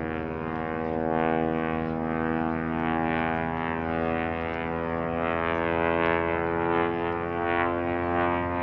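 Propeller aerobatic airplane flying a display pass, its engine and propeller making a steady drone that rises slightly in pitch near the end.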